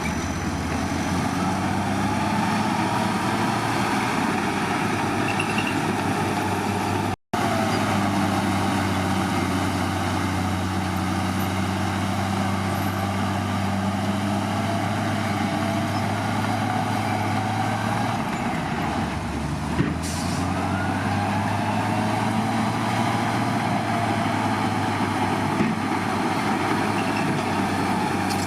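Heavy diesel construction machinery running steadily with a low, even drone. The sound drops out for an instant about a third of the way in, and the engine note shifts about two-thirds through, with a short hiss.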